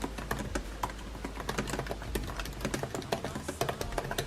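Typing on a computer keyboard: quick, irregular key clicks, over a low steady hum.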